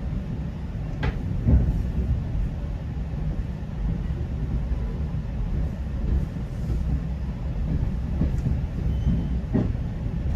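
GO Transit commuter train running on the rails, heard from inside a passenger coach: a steady low rumble with a few sharp knocks from the wheels.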